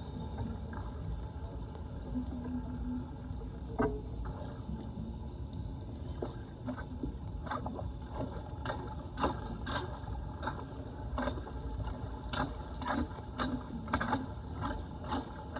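Floodwater running with a steady low rush, with sharp clicks and knocks that come more and more often from about six seconds in.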